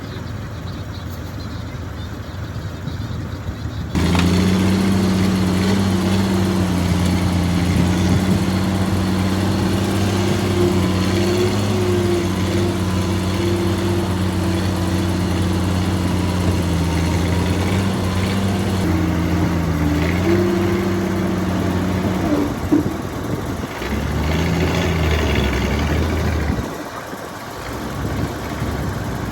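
Heavy diesel engine of earthmoving machinery running steadily, a low drone that comes in abruptly about four seconds in and changes pitch and dips briefly near the end.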